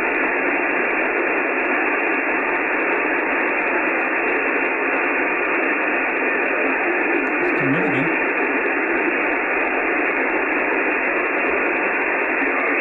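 Steady hiss from an Icom IC-9700 transceiver's speaker on 70 cm SSB, with the receiver open and no readable signal: band noise while the weak aircraft-reflected signal is down in the noise. A brief faint warble comes through about eight seconds in.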